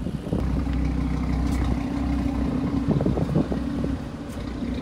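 Audi five-cylinder 2.5 TFSI engine idling steadily, with a brief rougher, louder patch about three seconds in.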